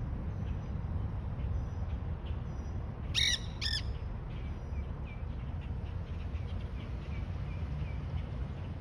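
Quaker parrots (monk parakeets) giving short chirps throughout, with two loud, harsh squawks in quick succession about three seconds in, over a steady low rumble.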